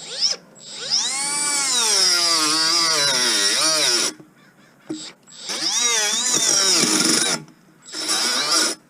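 Milwaukee M12 cordless cutting tool run in three bursts, its motor whine sagging and recovering in pitch as it bogs down in the cut. The owner takes this as the tool having no power.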